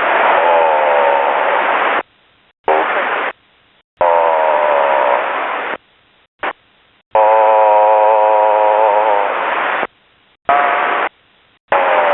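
Aviation scanner radio receiving a run of short keyed transmissions with no speech. There are about six bursts of static hiss, each switched on and off abruptly by the squelch. Several carry a wavering, warbling tone, strongest in the long burst in the middle.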